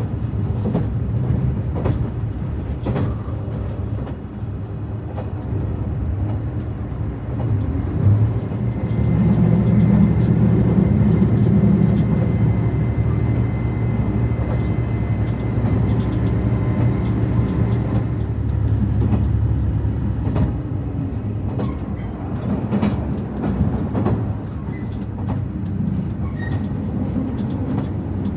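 Cabin running noise of a JR Shikoku 2700-series diesel railcar under way: a steady low rumble with scattered clicks from the rails. It grows louder from about eight seconds in for some ten seconds, then settles back.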